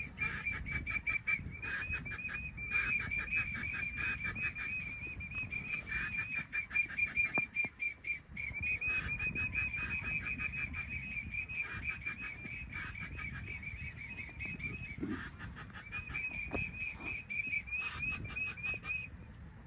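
A high-pitched trilling whistle, one note pulsed rapidly, running in long runs with brief breaks.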